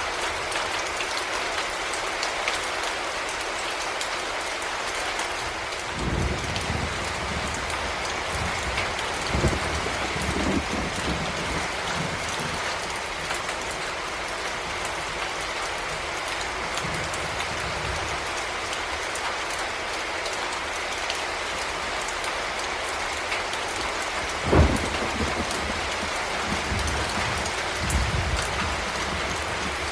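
Steady heavy rainfall, with low rumbles of thunder from about six seconds in and a sharper thunderclap about five seconds before the end.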